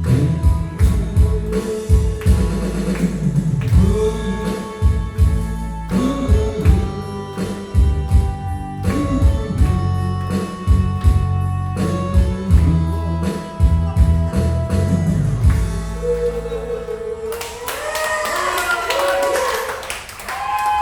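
A song sung over a backing of bass and guitar. About sixteen seconds in the accompaniment stops and a lone voice carries on to the end.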